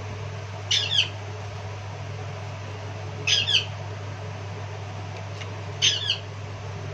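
A bird calling three times, evenly spaced, each call a quick pair of high, falling notes, over a steady low hum.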